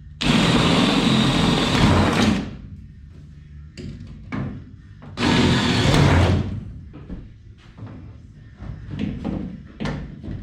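Cordless drill running in two bursts of about two seconds and a second and a half, backing out fasteners in the race car's body panels, with short knocks and clatter between the bursts.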